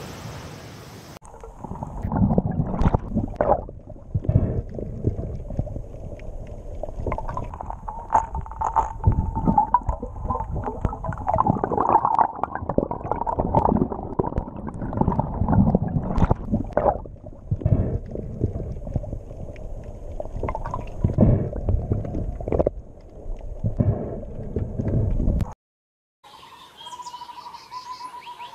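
Underwater sound of piranhas: low gurgling and rumbling with irregular knocks. It stops suddenly near the end, and a faint bird call, a toucan, begins.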